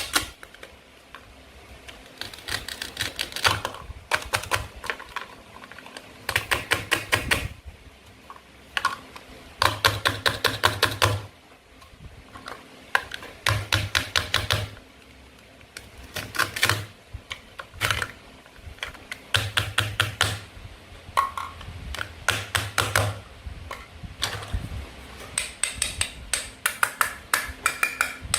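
Toy play-food fruit and vegetables being cut with a toy knife: rapid crackling clicks in short bursts of about a second, repeated every second or two.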